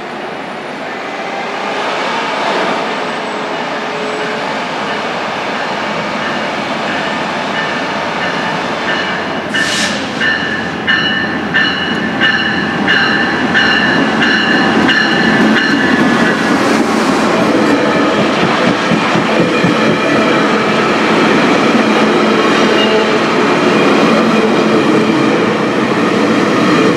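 Metrolink passenger train, a diesel locomotive pulling bi-level coaches, approaching and rolling past along the station platform, growing louder as it comes in. A short sharp hiss comes about ten seconds in, then high ringing tones pulse for several seconds before the heavy rumble of the passing cars.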